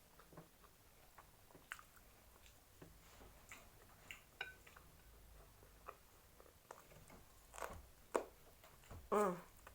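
Close-up chewing, with wet mouth clicks and lip smacks, while eating KFC; a couple of louder smacks come just before the end. Near the end there is a short voiced 'mm' from the eater, the loudest sound of the stretch.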